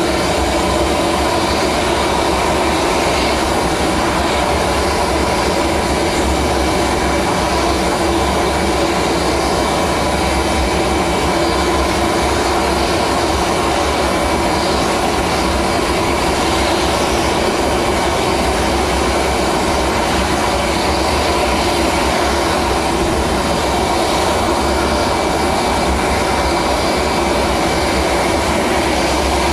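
Steady, unbroken engine noise, even in level throughout.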